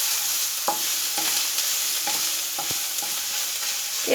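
Ginger garlic paste sizzling in hot oil in a kadai, a steady hiss, with a spoon scraping and tapping against the pan every half second or so as it is stirred.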